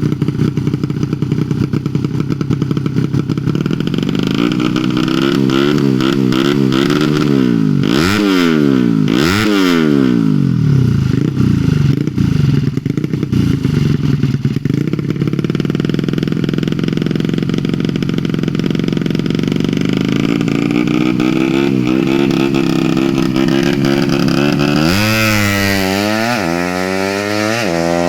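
115 cc underbone racing motorcycle engine running and being revved: its pitch drops and climbs twice about eight to ten seconds in, then holds steady, and near the end it is blipped up and down several times in quick succession.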